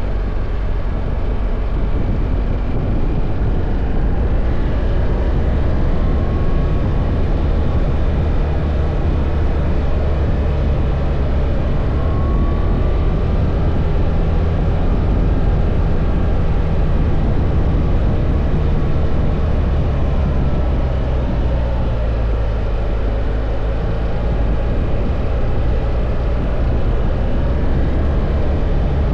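BMW R1300 GS boxer-twin engine running while riding at a steady pace, mixed with heavy wind rush on the microphone, a steady, loud, low rumble. A few faint rising and falling whines come through near the middle.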